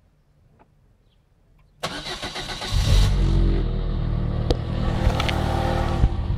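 Citroën Xsara 1.4i's 1.4-litre petrol engine being started: the starter cranks for about a second, beginning about two seconds in, then the engine catches and runs steadily.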